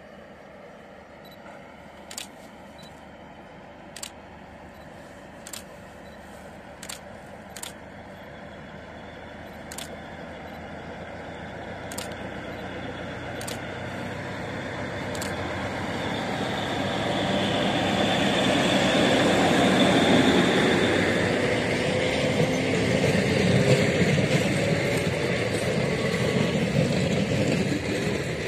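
Diesel-electric multiple-unit passenger train approaching and passing close by: its engine and wheel noise build gradually, are loudest about twenty seconds in as the front power car goes past, then the coaches roll by steadily. A few faint sharp clicks sound before the train draws near.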